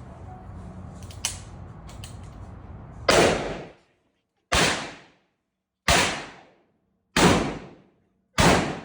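Smith & Wesson 500 Magnum revolver fired five times at a slow, even pace, about one and a third seconds apart, each shot loud and echoing off the indoor range. It starts about three seconds in, after a faint click.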